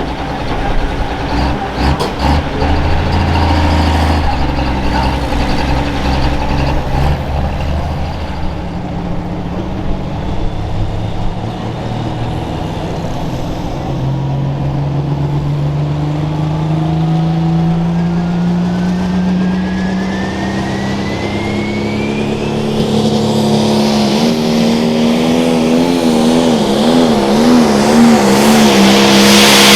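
Pro stock pulling tractor's turbocharged diesel engine running hard, its pitch climbing steadily from about halfway through with a high whistle rising alongside. Near the end it grows louder and its pitch wavers up and down.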